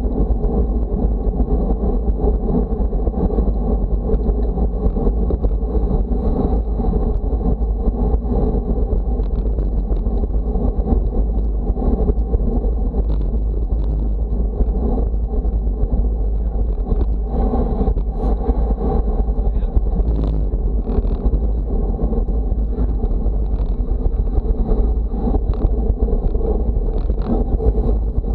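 Steady wind buffeting the microphone, a heavy low rumble under a constant rushing noise, with a faint steady high whine and a few light clicks.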